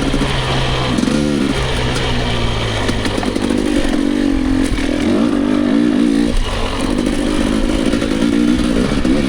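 Dirt bike engine being ridden on a trail, its revs rising and falling again and again as the throttle opens and closes.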